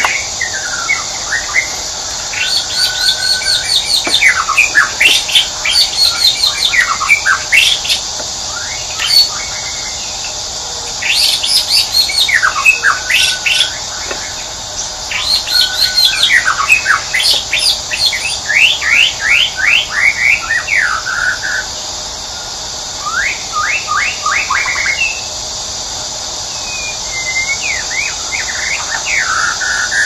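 Small birds chirping in quick runs of sharp, sweeping notes, in bouts of a few seconds with short pauses between, over a steady high hiss.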